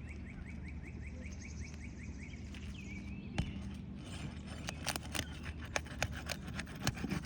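A nail being pried out of an asphalt shingle roof with a pry bar under force: a sharp click, then a quick run of clicks and crackles in the second half. A bird trills in the first few seconds over a steady low hum.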